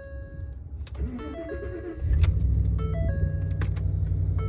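2014 Ford F150 cold start: the engine cranks briefly and catches about two seconds in, then runs steadily. A repeating electronic dashboard chime sounds throughout.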